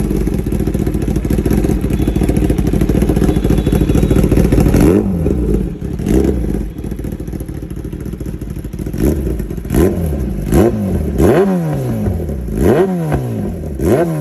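Kawasaki Ninja ZX-10R's inline-four engine run through its exhaust. It is held at raised revs for about five seconds, drops back to idle, then gets one throttle blip. From about nine seconds in comes a quick series of sharp blips, each rev rising and falling back, roughly one every three-quarters of a second.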